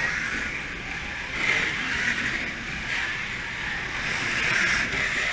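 Radio-controlled midget sprint cars running laps, a high whine from their motors and tires that swells and fades as they go by.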